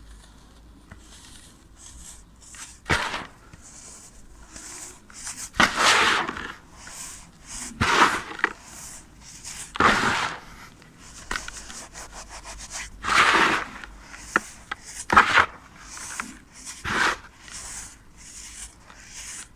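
Compacted clear sand being crumbled: about seven crisp crunches, roughly two seconds apart, with faint grainy crackling between them.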